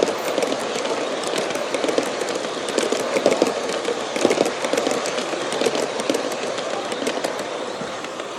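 G scale model passenger train, pulled by four USA Trains F3 locomotives, rolling along its track with a steady rumble of wheels and gearing and many small clicks from the wheels on the rails, easing slightly near the end.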